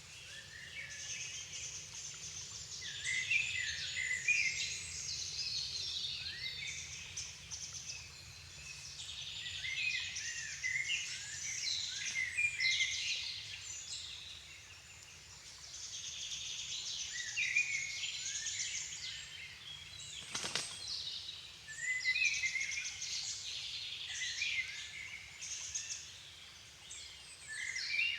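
Songbirds singing in a dense dusk chorus, many overlapping high, twittering phrases coming in waves. A single sharp click about twenty seconds in.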